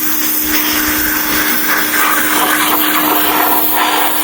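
Pressure washer running: a steady motor hum under the loud hiss of the spray.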